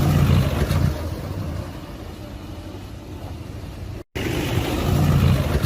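A motor vehicle running, with steady engine and road noise, louder in the first second and again near the end; the sound cuts out abruptly about four seconds in and resumes.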